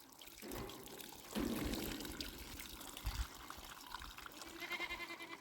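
Water pouring and trickling, irregular and splashy.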